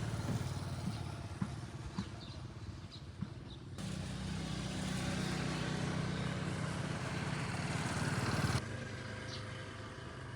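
An engine running with a steady low hum, a motor vehicle such as a motorbike, with a few faint ticks; the sound cuts abruptly to a louder hum about four seconds in and drops back a couple of seconds before the end.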